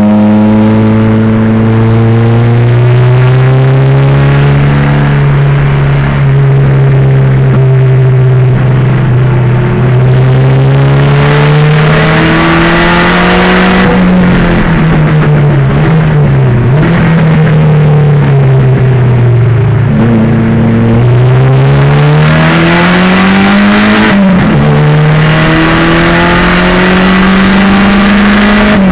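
A 1987 Pontiac Fiero's turbocharged 2.0-litre engine running hard on track. The engine note climbs slowly under load, drops sharply a few times and climbs again.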